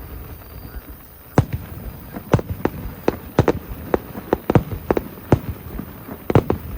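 Aerial fireworks going off: a fading low rumble, then from about a second in an irregular run of sharp bangs and pops, two or three a second.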